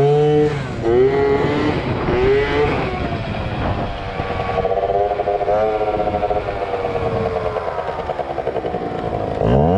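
Two-stroke Yamaha ZR Evo scooter engine revving up and down: several quick rising surges of throttle, a longer high, wavering stretch in the middle, a drop in pitch, then a sharp rise near the end.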